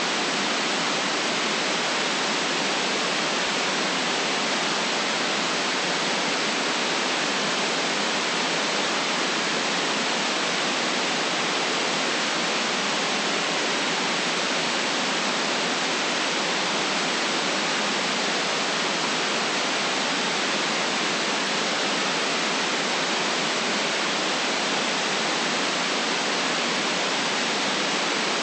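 Steady white-noise hiss, perfectly even and unchanging, with little bass.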